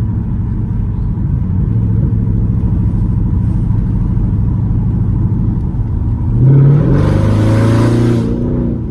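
Dodge Charger SRT8's 6.4-litre 392 Hemi V8 on a straight-pipe exhaust running steadily while driving, then revving up hard about six and a half seconds in. The exhaust gets much louder for over a second, then eases off.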